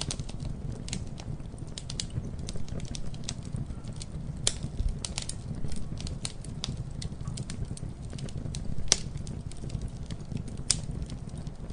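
Campfire burning with a low steady rumble and irregular sharp crackles and pops of burning wood, the loudest pops about four and a half, nine and eleven seconds in.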